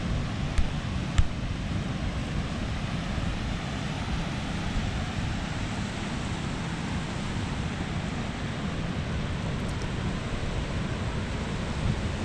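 Wind buffeting the microphone over the steady wash of surf, with two short knocks in the first second or so.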